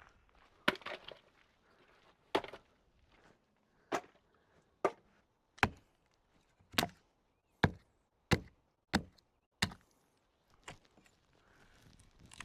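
Firewood being chopped: about a dozen sharp, separate blows. They come slowly at first, speed up to more than one a second in the middle, and then slow again.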